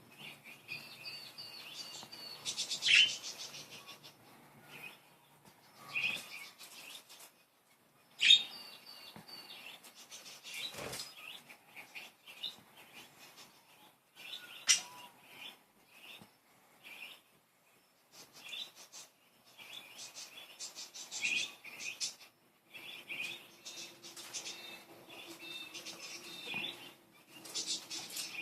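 Budgerigars chirping and warbling in bursts of short, high chirps, with a few sharp clicks, the loudest about eight seconds in.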